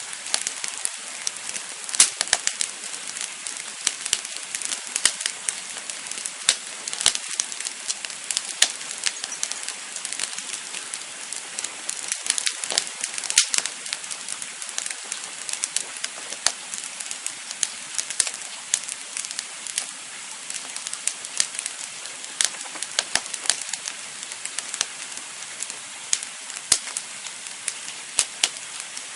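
Wood campfire burning, with a steady hiss under frequent, irregular crackles and pops.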